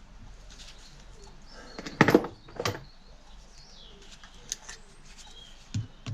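A few knocks and clatters of hand tools and metal parts being handled at a workbench, the loudest pair about two seconds in and another just after, with smaller taps later.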